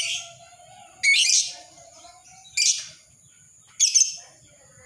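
Lovebird calling: three short, shrill, harsh chirps, spaced a little over a second apart.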